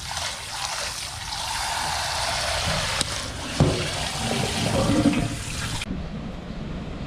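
Water running and splashing in a steady rush, with two sharp knocks about three and three and a half seconds in. The sound changes abruptly near the end, losing its highest part.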